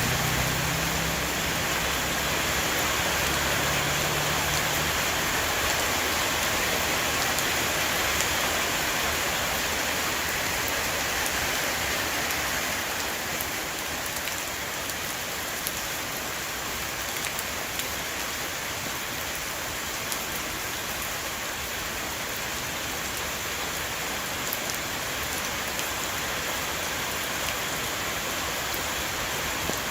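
Heavy rain shower falling on a roof, a steady dense hiss of rain with scattered individual drop taps.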